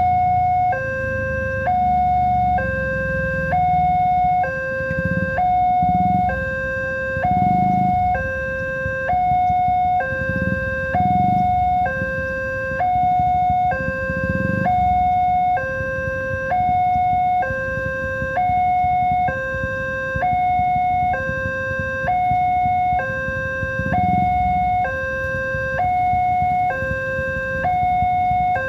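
Electronic two-tone warning alarm of a railway level crossing, sounding continuously and switching evenly between a higher and a lower tone about every 0.7 seconds. A low rumble is heard under it through the first half and again near the end.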